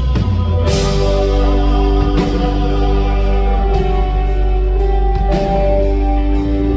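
Live band playing an instrumental passage: steady held guitar and keyboard chords over a strong bass, with regular drum and cymbal hits.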